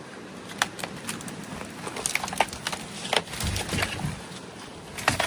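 A run of irregular light snaps and crackles, like wood or plant matter being stepped on or handled, with a brief low rumble in the middle.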